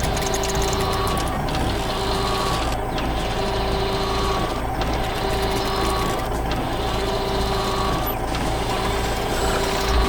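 Heavy construction machine engine running steadily, with a beeping tone that repeats about every second and a half.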